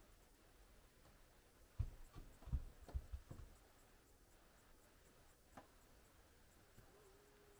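A quiet room with a quick run of five or six soft, low thumps about two seconds in, then a single click, and a faint steady hum starting near the end.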